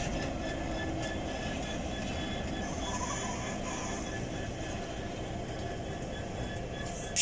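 Class 66 diesel locomotive's two-stroke V12 engine running as it shunts through the yard, a steady rumble. A short, sharp knock near the end.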